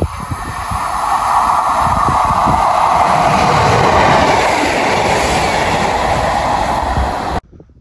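Northern Class 150 diesel multiple unit passing a station platform at speed: a rush of engine and wheel noise that builds, is loudest about four seconds in as the train goes by, and carries clicks from the rail joints. It cuts off suddenly near the end.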